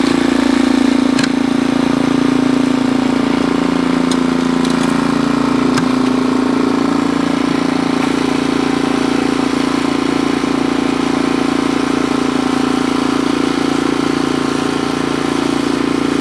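An engine running steadily at a constant pitch, with no revving.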